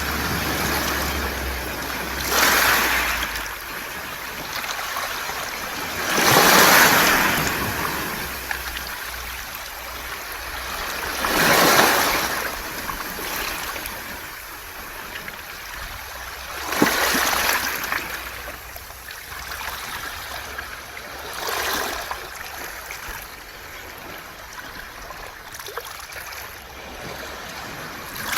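Waves washing up a round-pebble (mongdol) beach, each surge swelling into a loud hiss of water over the stones and then drawing back, about every four to five seconds.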